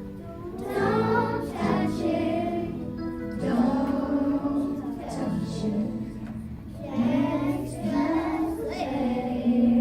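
A group of young children singing a song together over instrumental backing, ending on a long held note near the end.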